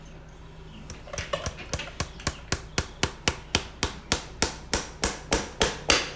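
Farrier's driving hammer tapping horseshoe nails into a hoof, a steady run of sharp strikes about four a second, starting about a second in and growing louder toward the end.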